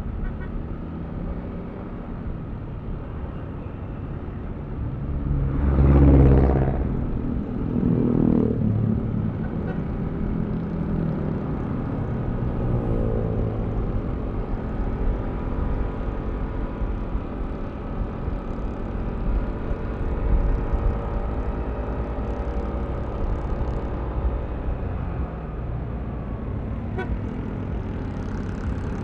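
Yamaha Aerox V3 scooter's single-cylinder engine running on the move in road traffic, its pitch gliding with changes in throttle. A brief louder swell of traffic about six seconds in stands out as the loudest moment.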